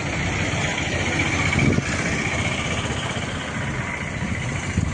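Motor vehicle engines running steadily, with a dense rumbling noise that swells briefly a little under two seconds in.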